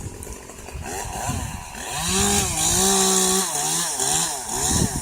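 Chainsaw revving up to full throttle, held high for about a second and a half, then throttled back with a few quick revs near the end.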